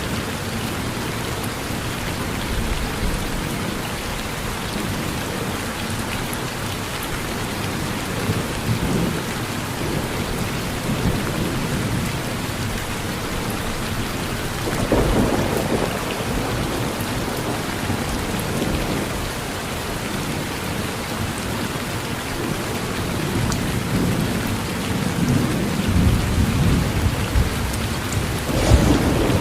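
Steady heavy rain falling on a porch roof, with rolls of thunder rumbling low about halfway through and again, louder, near the end.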